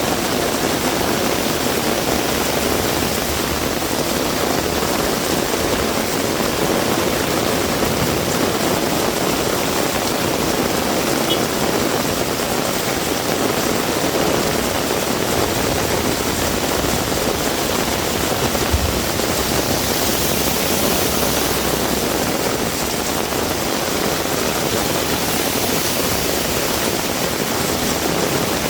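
Heavy rain falling, a steady dense hiss with no letup, with one brief low thud about two-thirds of the way through.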